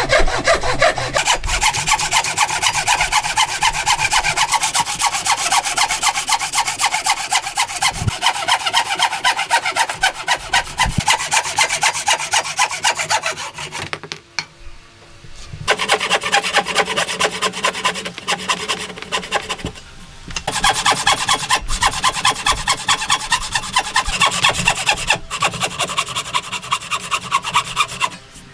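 Hand saw cutting through wood in quick back-and-forth strokes. It stops for a moment about halfway through, then again briefly a few seconds later.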